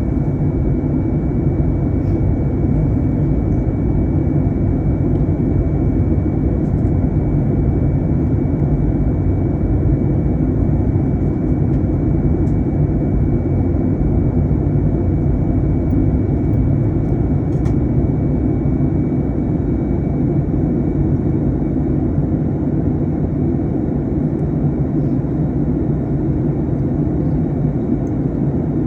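Steady cabin noise of an Airbus A321 in flight: an even, loud rumble of engines and airflow, with a faint steady high tone over it.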